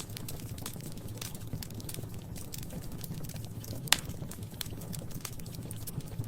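Wood fire in a fireplace crackling, with irregular small snaps over a steady low rumble, and one louder pop about four seconds in.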